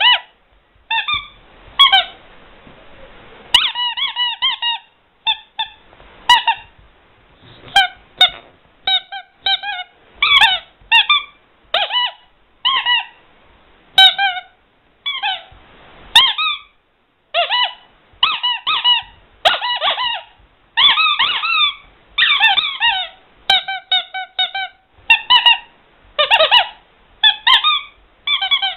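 Rubber squeaky toy squeezed over and over, giving short high squeaks, often in quick runs of two to four, with brief gaps between.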